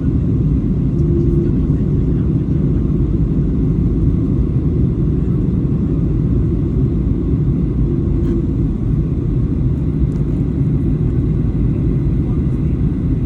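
Steady low roar of jet engine and airflow noise heard inside the cabin of a Boeing 737-800 airliner on its approach. A faint brief hum rises out of it about a second in and again about eight seconds in.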